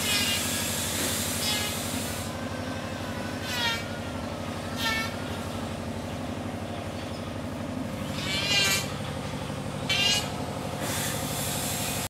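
Birds giving short, harsh squawking calls, about six of them, the last two the loudest, over a steady low hum.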